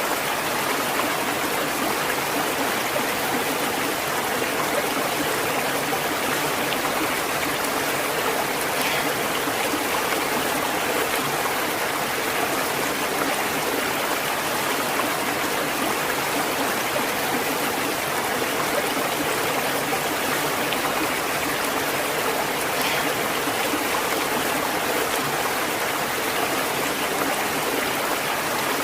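A stream of running water flowing steadily, an even rushing noise with no pauses or changes.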